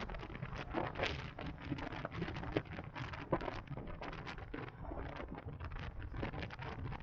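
Wind buffeting the microphone of a moving electric motorcycle, an irregular crackling rush over a low road rumble.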